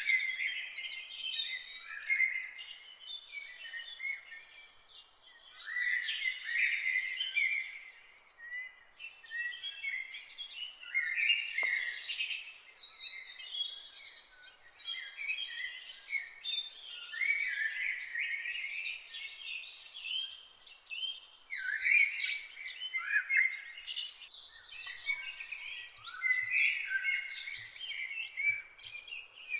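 Several songbirds singing together in a morning chorus: many short chirps and warbled phrases overlapping without a break, over a faint steady background hiss.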